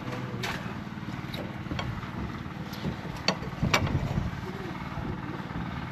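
A steady low engine hum with a few short clicks and knocks, the loudest about three and three-quarter seconds in.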